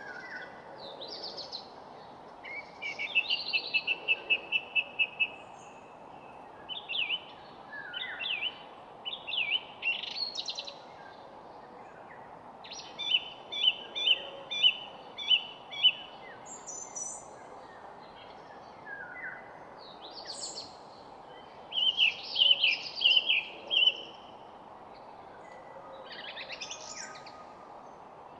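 Songbirds singing in short, separate phrases: some are fast, even trills lasting one to two seconds, others quick chirps and whistled notes, with pauses between them. A steady background hiss runs underneath.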